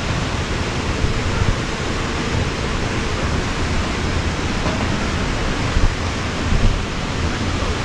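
Waterfall running: a steady, dense rush of falling water, strongest in the low end, with two brief bumps about six seconds in.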